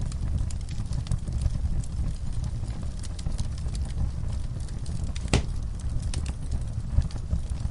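Wood fire in a fireplace burning with a steady low rumble and scattered crackles, with one louder pop about five seconds in.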